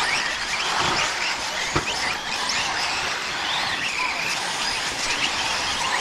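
Several radio-controlled 4WD short course trucks racing on dirt: their motors whine, rising and falling in pitch as they speed up and slow, over the hiss of tyres on the track. There is one sharp knock about two seconds in.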